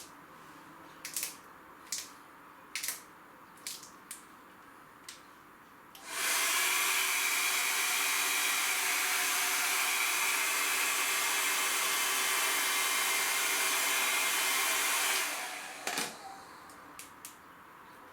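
A hand-held hot-air blower switches on about six seconds in, runs steadily with a faint motor whine for about nine seconds, then cuts off; it is typical of warming vinyl wheel stickers so they conform to the rim. Light clicks, about one a second, come before it.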